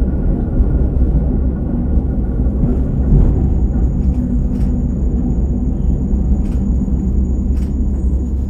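Steady low rumble of a KiHa 47 diesel railcar heard from inside the passenger cabin, muffled as if through cloth, with a few faint clicks.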